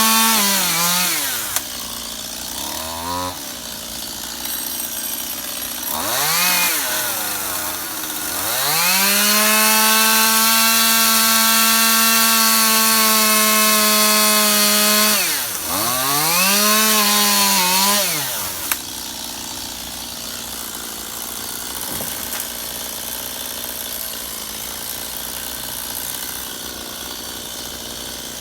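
Stihl chainsaw engine revving up to full throttle and dropping back to idle several times. The longest run at full speed lasts about six seconds. After about nineteen seconds it settles into a steady idle.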